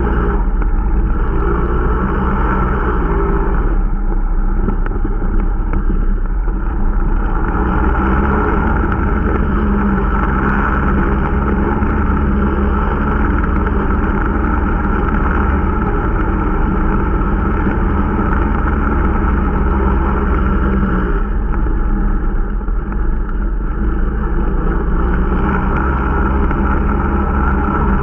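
Irbis Dingo T125 snowmobile's 125 cc engine running under way at a fairly steady pace, picking up about a quarter of the way in, easing off near three quarters and picking up again near the end. The machine is being run in on a new engine.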